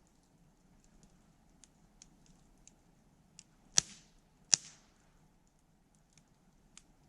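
Wood fire crackling with faint scattered ticks, and two loud sharp pops a little under a second apart near the middle.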